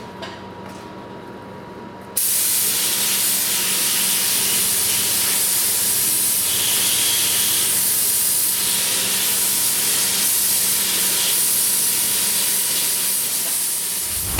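Paint being sprayed onto a GM 12-bolt rear axle housing: a loud, steady hiss that starts suddenly about two seconds in and holds even, over a faint steady hum.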